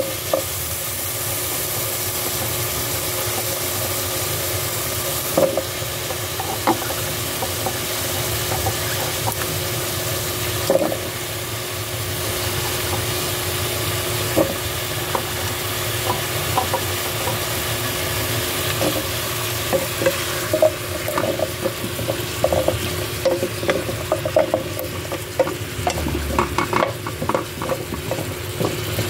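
Chicken and onion sizzling in oil in a pot while chunks of squash are added, with scattered knocks. In the last several seconds a wooden spatula stirs, scraping and knocking against the pot more often.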